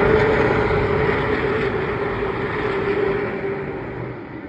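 A pack of Pro Late Model stock cars racing past at full throttle, their V8 engines a loud, steady drone that fades gradually as the field moves away.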